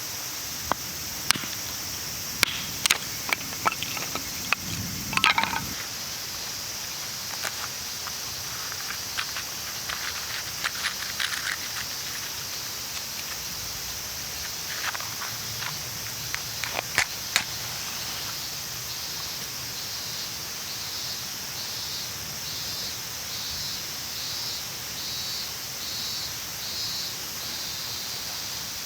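Outdoor ambience: a steady high hiss with scattered light clicks and knocks through the first half. In the second half a faint high chirp repeats about once a second.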